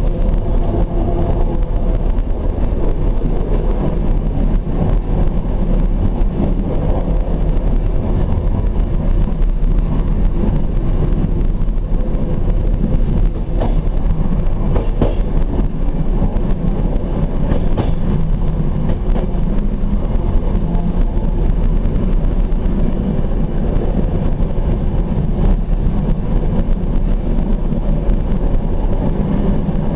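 Suburban train running steadily along the rails, heard from aboard: a continuous low rumble of wheels and running gear, with a few faint clicks about halfway through.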